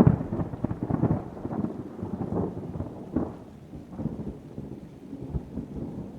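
A thunderclap: a sharp crack at the start that turns into a long, crackling rumble, slowly fading.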